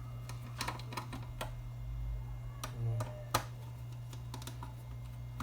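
Irregular small clicks and ticks of screws being worked out of an amplifier's case with a screwdriver, over a steady low hum.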